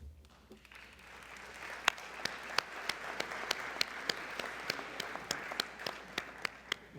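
Audience applauding, building up about a second in and dying away near the end, with one set of sharp, close claps standing out at about three a second.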